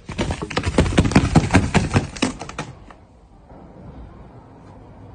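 A rapid clatter of many small knocks and rattles, several a second, lasting about three seconds and then stopping.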